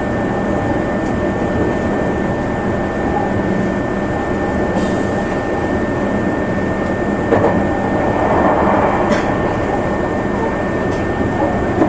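Running sound inside a Meitetsu limited express electric train on the move: a steady rumble of wheels on rail with a thin, steady high tone. A few sharp clicks come through, spread a couple of seconds apart.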